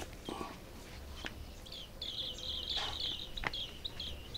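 A small bird chirping over and over in quick short high notes, a few a second, with a couple of faint clicks and rustles.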